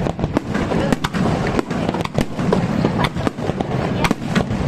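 Fireworks display with shells bursting in quick, irregular succession, several sharp bangs and cracks a second over a continuous rumble.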